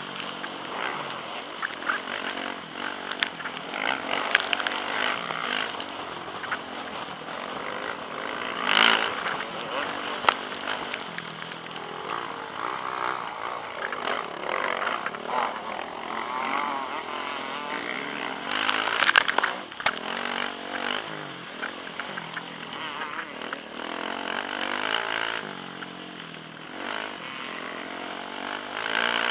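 Motocross bike engine revving hard, rising and falling in pitch over and over as the rider works the throttle on track, heard from a helmet camera. There are louder surges about 9 and 19 seconds in.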